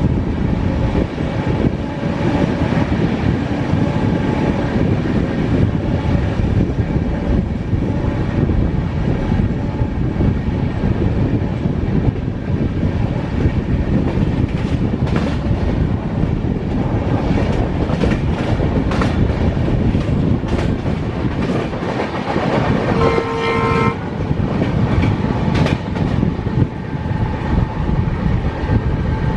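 Passenger train running at speed: a steady rumble with scattered clicks of wheels over the rail. A train horn sounds for about a second near the end.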